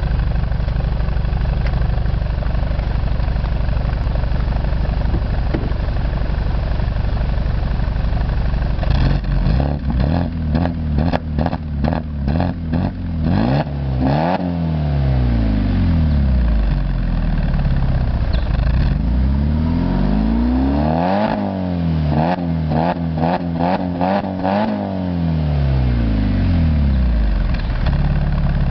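BMW car engine with a performance exhaust, idling and then revved while standing: a string of quick throttle blips, a rev that rises and falls, a longer rev up and back down followed by more quick blips, then a return to a steady idle.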